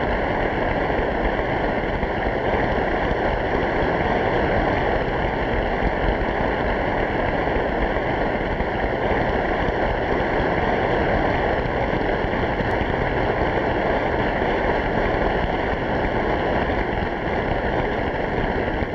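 Studio audience applauding steadily, thinning out slightly near the end.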